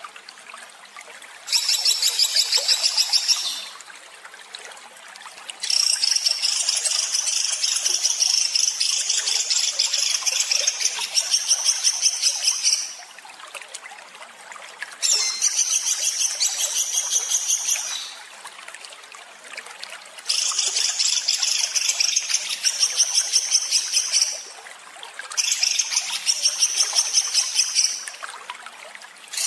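Small songbird's harsh, rapid-fire song: dense rattling trills of fast repeated high notes, in phrases of a few seconds with short pauses between.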